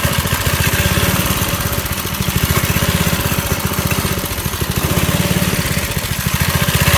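Vintage 2 hp Briggs & Stratton single-cylinder flathead engine running fast and steady just after a cold start on a 35-degree day, its sound easing a little in the middle and picking up again near the end.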